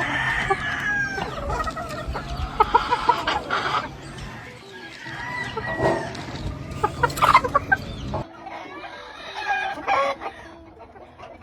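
Gamefowl roosters crowing, with bursts of short clucks between the crows.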